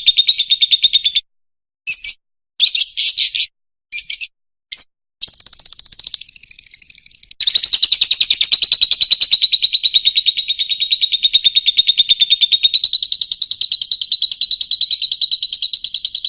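Fischer's lovebird singing: a fast, buzzy chatter of rapid clicks. It comes in short bursts with abrupt gaps for the first several seconds, then runs unbroken from about seven seconds in.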